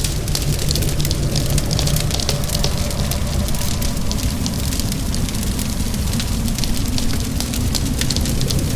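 Wood fire crackling with frequent sharp snaps over a steady low rumble, mixed with the even hiss of rain.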